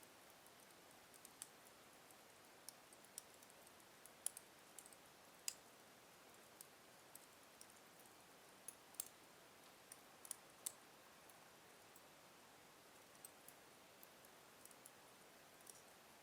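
Slow-burning wood fire in a fireplace crackling: sparse, irregular sharp pops and ticks over a faint hiss.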